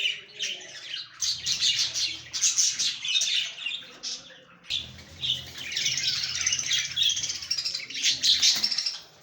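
A group of Australian parrots chirping and chattering in a dense, continuous stream of high chirps, with a brief lull about four seconds in.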